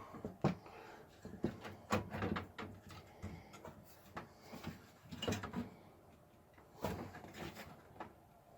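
A motherboard being set into a metal computer case: irregular light knocks, clicks and scrapes as the board is handled against the case.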